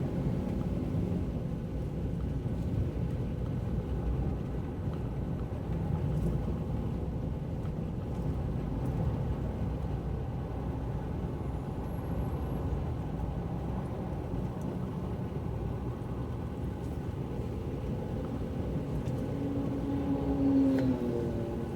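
Steady low rumble of a car driving through city traffic on wet roads, with road and engine noise. Near the end, a brief, louder pitched drone rises over it.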